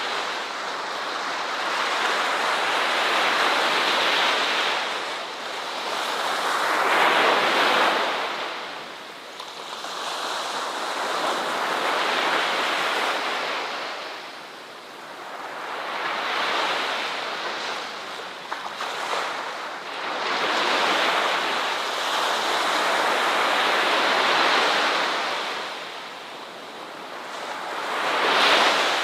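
Ocean surf: waves breaking and washing up the shore, a rushing hiss that swells and falls back about every four seconds.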